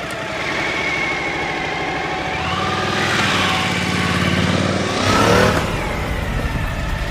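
Suzuki V-Strom 1050 motorcycle's V-twin engine running and revving, its pitch climbing and falling, with a louder surge about five seconds in.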